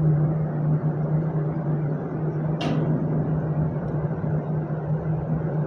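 A ship's machinery giving a steady low hum, with one sharp knock about two and a half seconds in.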